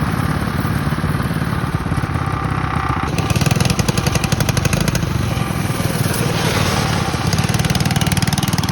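Mini bike's small diesel engine running loud and hard, its firing pulses rapid and even, getting louder about three seconds in.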